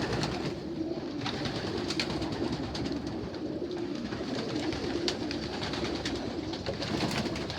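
A flock of young racing pigeons cooing steadily together, a continuous low warbling chorus, with a few faint clicks.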